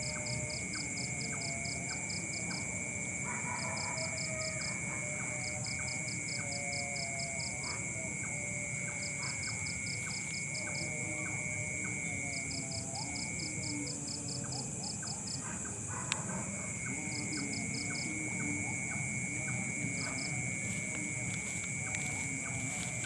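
Night chorus of crickets and other insects: two steady high-pitched trills, with a faster pulsed chirping that comes in short bursts every second or two. Fainter, lower wavering animal calls sound underneath.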